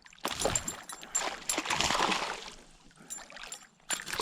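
Water splashing in irregular bursts as a hooked pickerel thrashes at the surface beside a kayak. There is a long run of splashing, then a shorter splash near the end.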